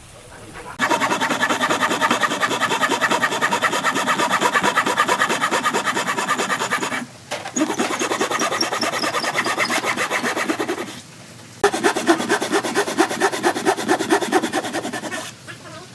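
A tool scraping and abrading dried stump wood in fast, even strokes. It works in three passes, with short breaks about seven and eleven seconds in.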